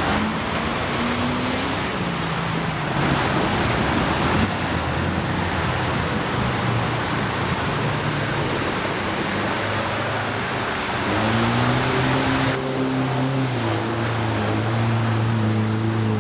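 Off-road vehicle engine revving up and down, then holding a steady note in the last few seconds, under a loud continuous rushing noise.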